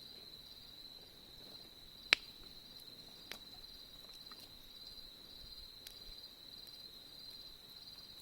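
Autumn insects trilling steadily at a high pitch, with a few sharp pops from a wood campfire, one loud pop about two seconds in and fainter ones after it.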